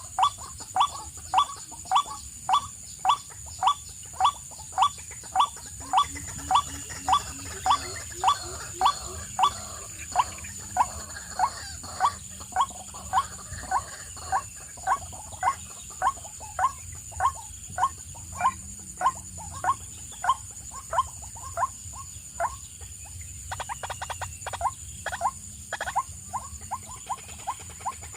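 A bird's short, sharp call repeated steadily about three times every two seconds, each note dropping in pitch; near the end the calls break into a quick flurry and then come faster.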